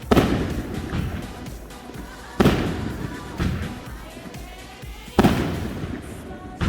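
Aerial fireworks shells bursting, a sharp bang every two to three seconds, each trailing off in a fading rumble, with a smaller pop in between. Music plays underneath.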